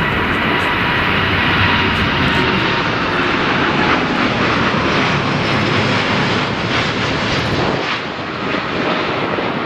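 Jet airliner's engines running loud as it passes close by, a steady rushing noise with a faint high whine. The sound eases off a little near the end.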